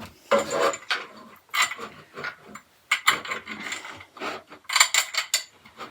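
Irregular clicking and rattling of shelf-rack parts being handled and fitted together during assembly.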